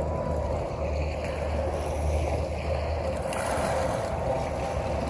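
Tour boat's engine running steadily, with water rushing past the hull and wind.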